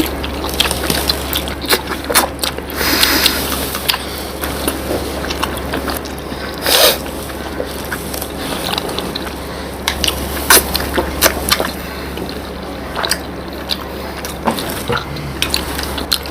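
People eating syrup-soaked rasgullas: wet squishing, slurping and biting, with many short sharp clicks and a few louder wet bursts.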